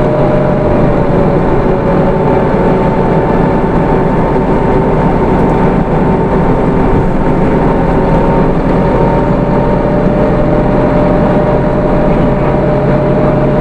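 Hino Rainbow II bus's 4HK1 four-cylinder diesel and automatic drivetrain running under way, with road noise and a steady whine that dips a little in pitch early on and rises again later.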